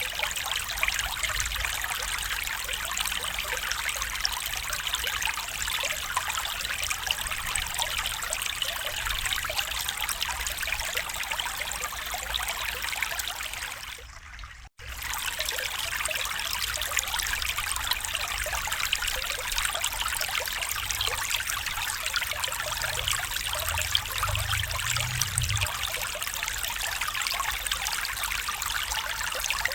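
A small stream running and trickling steadily over stones. The sound fades out and cuts to silence for a moment about halfway through, then comes straight back. A low rumble rises under it later on.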